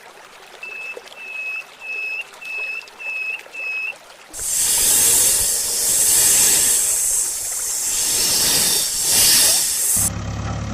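Six short high beeps, evenly spaced about two-thirds of a second apart, then a loud hissing rush for about six seconds. Near the end it cuts to an engine idling.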